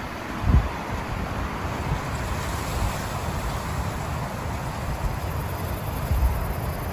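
Steady rain hiss with wind gusts rumbling on the microphone, one about half a second in and another near the end.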